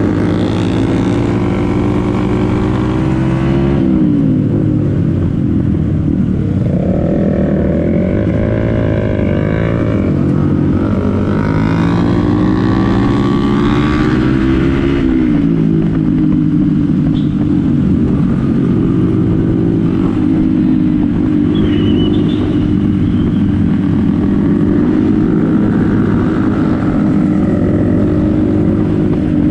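Motorcycle engine running under way, its pitch rising and falling with the throttle several times in the first half, then holding steady as it cruises.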